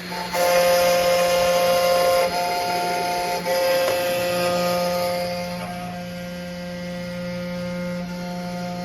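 CNC engraving machine at work. Its stepper motors whine in steady tones that jump to new pitches every second or two as the axes change speed, over a steady low hum.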